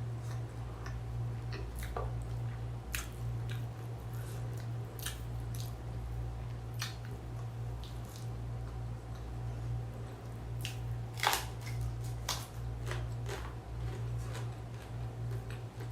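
Close-up eating sounds: scattered wet chewing and mouth smacks while eating a rice dish, with one sharper click about eleven seconds in, over a steady low hum.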